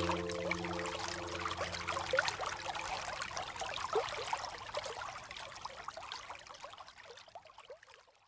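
Rain falling, with many small drop splashes, fading out gradually toward the end.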